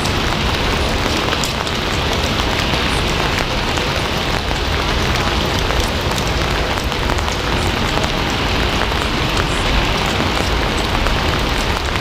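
Steady rain falling: a constant hiss with many scattered drop ticks and a low rumble underneath.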